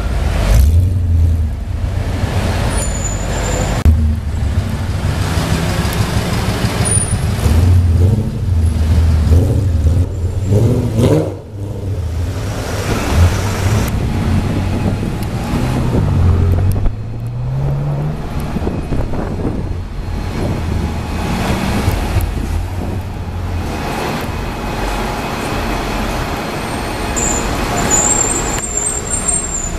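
Twin-turbocharged Ford GT's V8 engine running loudly with a low rumble, its revs rising and falling, and a rising rev about halfway through, with city traffic around it.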